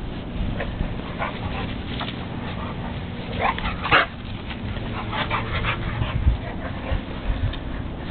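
Puppies whimpering and yipping in short, high cries, loudest and most crowded about four seconds in, over a steady low hum.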